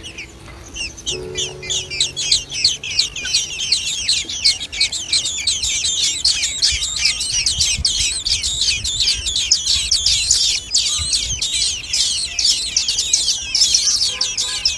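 A brood of nestlings calling together in a dense, rapid chorus of high-pitched chirps that starts about a second in and keeps going: begging calls from baby birds in the nest.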